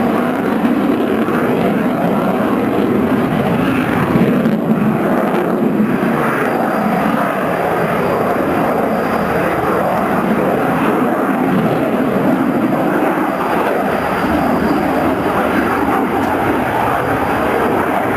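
Military aircraft's engines heard in flight: a loud, steady rushing noise with no break.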